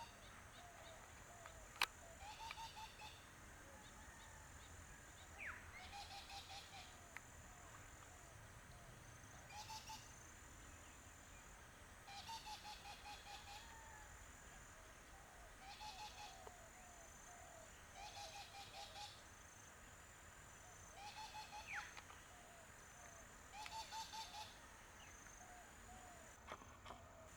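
Faint bird calls in short chattering bouts, about eight of them, coming every two to three seconds, over a thin steady high insect drone.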